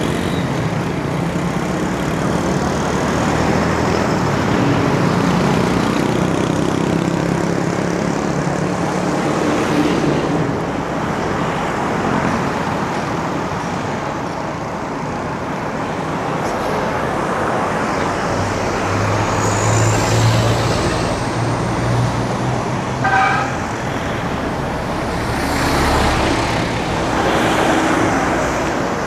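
Road traffic heard while riding a bicycle in a city, with the engines of passing vehicles rising and fading. A short horn beep sounds about 23 seconds in.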